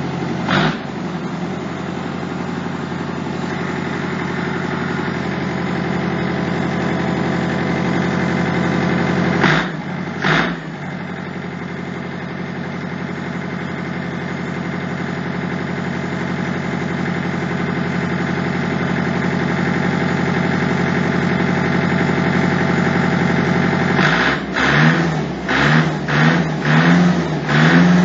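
Kubota tractor engine running steadily, its level creeping up slowly. Three short loud noises break in near the start and about ten seconds in. Near the end the engine is revved in several quick blips.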